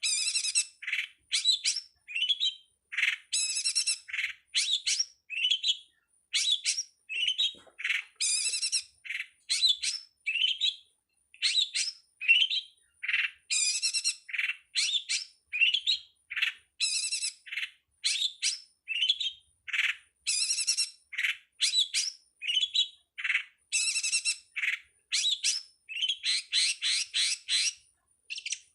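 Long-tailed shrike (pentet) song: an unbroken run of short, varied, high-pitched chattering and whistled phrases, about two a second.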